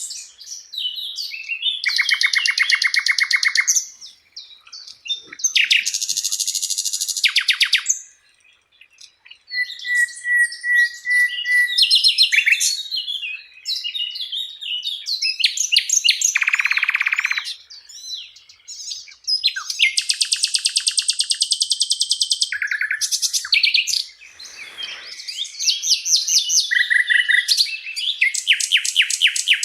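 Sikatan londo flycatcher singing: bouts of fast, rattling trills of evenly repeated notes alternating with varied chirps and whistled phrases, each bout lasting one to three seconds with short pauses between.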